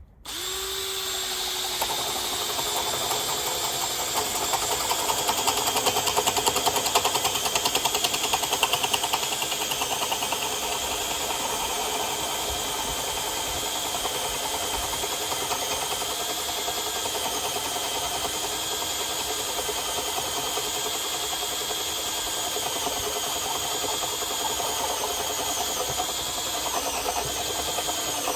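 Makita BPH454 cordless hammer driver-drill's motor running in first speed under heavy load, driving a dull spade bit through pressure-treated lumber. It starts suddenly, runs steadily, is loudest a few seconds in, and its pitch dips briefly near the end.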